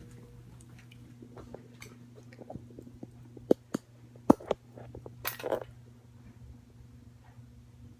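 Handling noise: a few sharp clicks and knocks about halfway through, then a brief rustle, as small objects are moved about while a lipstick is being looked for. A steady low electrical hum lies beneath.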